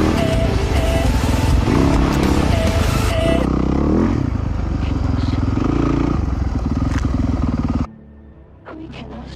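Dirt bike engine revving up and down repeatedly, its pitch rising and falling about once every second or so. It cuts off suddenly near the end.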